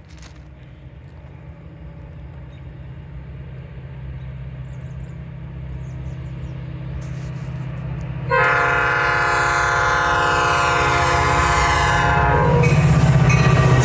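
Diesel train approaching, its low engine and wheel rumble growing steadily louder. About eight seconds in the locomotive's horn sounds one long blast of about four seconds, several tones together, and the rumble is at its loudest near the end as the train draws level.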